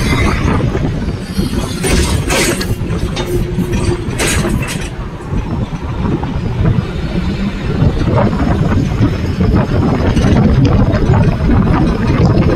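Moving Indian Railways train running: a steady, loud rumble of wheels on the rails and wind, with a few sharp clatters about two and four seconds in.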